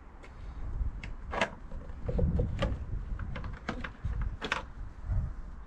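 Scattered clicks and clunks of handling, with a few sharper knocks, over a low rumble.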